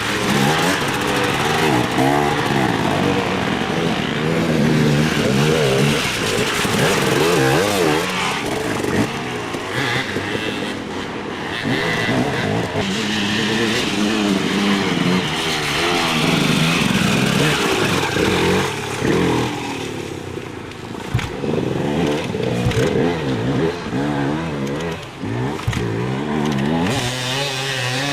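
Dirt bike engines racing along an off-road trail, revving up and easing off again and again as riders shift and pass one another.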